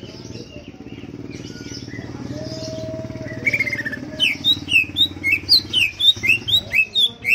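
Green leafbird (cucak ijo) in full song: soft chirps at first, then about halfway a short trill leads into a loud, rapid run of sharp sliding whistled notes, about four a second.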